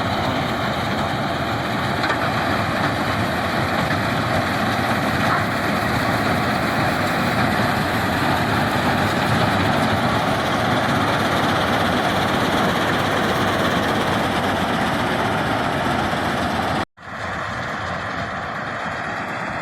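Combine harvester running steadily, a dense mechanical din of engine and working parts. The sound cuts out for an instant near the end and comes back a little quieter.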